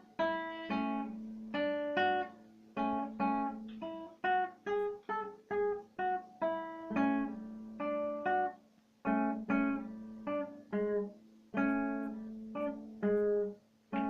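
Solo acoustic guitar playing a slow instrumental tune: plucked chords and single notes about one to two a second, each ringing out and fading, with a short pause a little past the middle.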